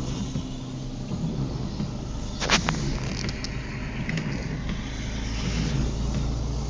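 Steady engine and road noise inside a car's cabin on a wet road in the rain, with one sharp knock about two and a half seconds in and a few lighter clicks after it.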